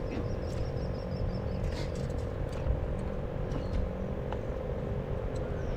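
Steady drone of a distant motor, with a low rumble on the microphone. A short, high, chirping trill of a bird comes in the first second or so.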